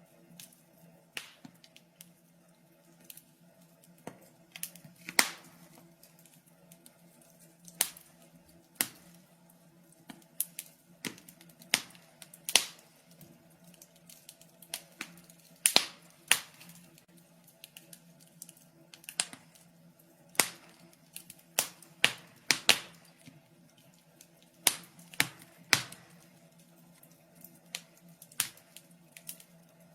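Wood fire in a fireplace crackling, with irregular sharp pops and snaps, some of them loud, over a faint steady low hum.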